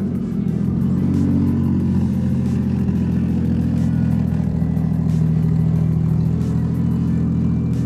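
Car engine running at a steady speed, a low even drone with no change in pitch.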